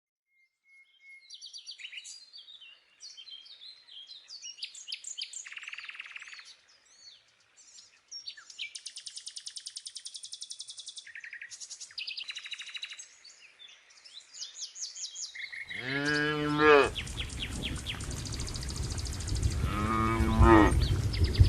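Birds singing and calling, with short chirps and fast trills. About sixteen seconds in a cow moos loudly, and moos again near the end, over a rushing noise that sets in with the first moo.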